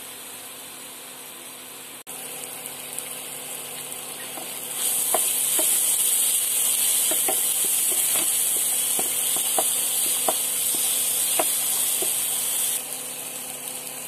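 Spiced curd masala sizzling in hot oil in a pan, stirred with a wooden spatula, with scattered clicks and scrapes. The sizzle gets much louder about five seconds in and drops back shortly before the end.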